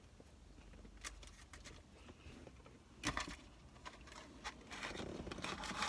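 Faint eating noises of someone eating fast food: chewing, with a few short clicks and crackles, one about a second in and a louder cluster about three seconds in.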